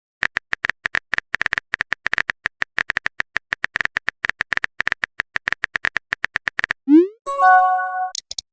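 Rapid phone-keyboard tap clicks, about eight a second, for over six seconds, then a short rising swoosh and a pitched chime: a chat message being typed and sent.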